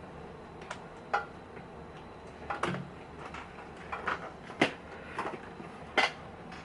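Scattered sharp clicks and knocks of small objects being handled and set down on a workbench, about seven in all, the loudest two about four and a half and six seconds in.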